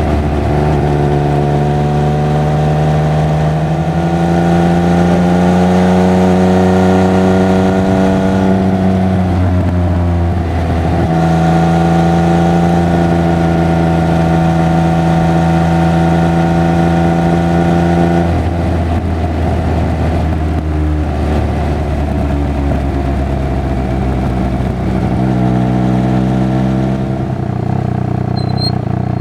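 Triumph Speed Triple 1200 RR's three-cylinder engine and exhaust pulling at steady revs. The engine note steps up and drops back a few times, and turns rough and uneven off the throttle for several seconds past the middle.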